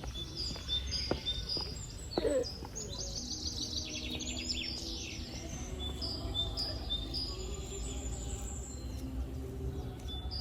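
Small birds chirping over and over in short high notes, with a quick trilling run of chirps about three to five seconds in, over a steady low background rumble.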